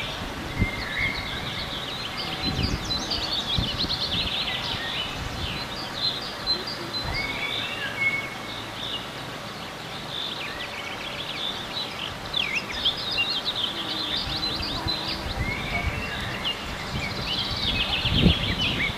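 Several songbirds chirping and singing at once, in quick overlapping trills and calls, with a low rumble now and then, loudest near the end.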